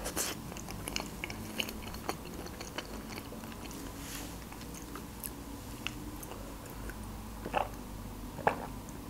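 Close-up mouth sounds of chewing a soft layered herring-and-beet salad (herring under a fur coat): faint wet smacks and small clicks. Near the end come a couple of short, louder swallowing sounds as a drink is sipped from a glass.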